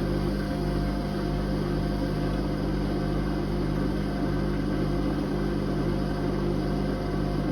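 Whirlpool Indiana 1400 washing machine running, a steady motor hum with a few low tones held constant.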